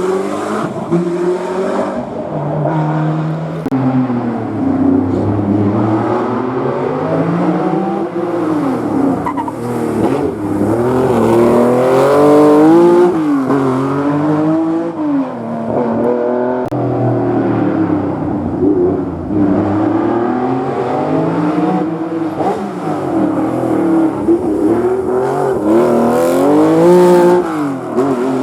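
Historic rally cars' engines working through a tight hairpin: loud engine notes rise and fall again and again as the cars brake, change gear and accelerate away.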